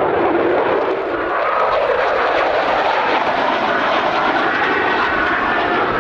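F-16 Fighting Falcon's jet engine, a loud steady roar during an air-show flying display. Its tone rises over the first couple of seconds.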